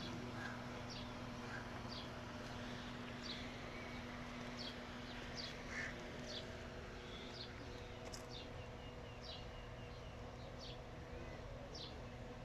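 A bird calling with short, high, falling chirps about once a second, over a steady low hum.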